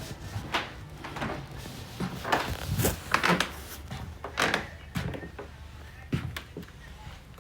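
Kitchen handling: a run of irregular knocks and crinkly rustles, busiest and loudest between about two and three and a half seconds in, with a few single knocks after.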